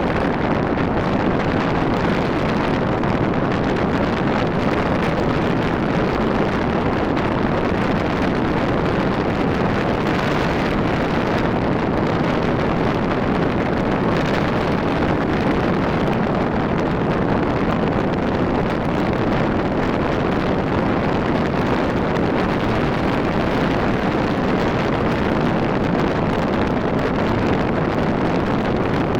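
Wind buffeting the microphone over steady motorcycle engine and road noise while riding on a Rusi RFI 175.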